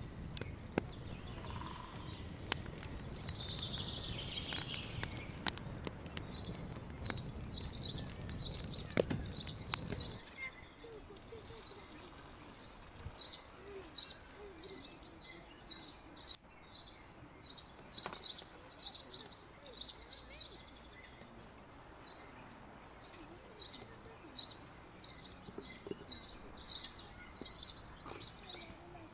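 Small birds chirping in quick clusters of short, high chirps. For the first ten seconds or so a low background noise with scattered clicks runs underneath; it stops abruptly, leaving the chirping over a quieter background.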